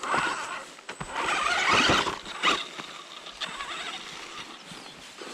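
Small hobby RC car's electric motor and gears whirring in uneven bursts as it is driven, loudest about a second to two and a half seconds in, with a few sharp clicks.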